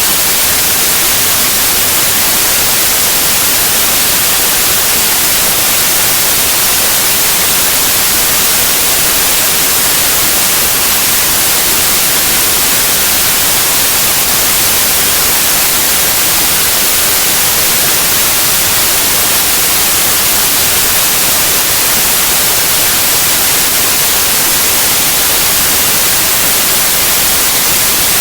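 Steady white noise: an even, unchanging hiss, brightest in the high end, with no variation.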